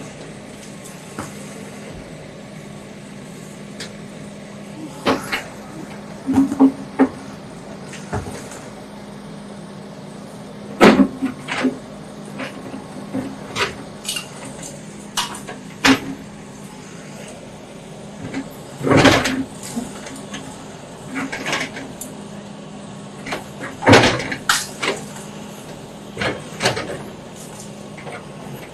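Bulldozer demolishing a house: the machine's engine runs steadily under irregular loud knocks and crashes of breaking masonry every few seconds.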